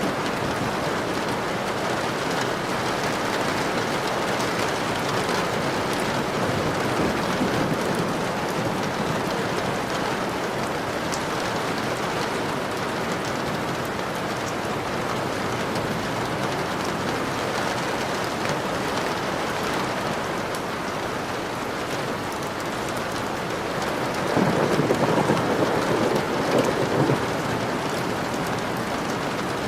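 Steady heavy rain, with a louder rumble of thunder swelling for a couple of seconds about twenty-five seconds in.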